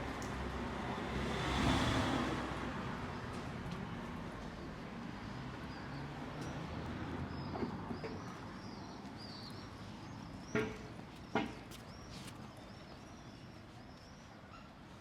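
Street ambience: a car passes and fades away over the first few seconds. Then small birds chirp over and over, high-pitched and quick, with two sharp knocks a little past the middle.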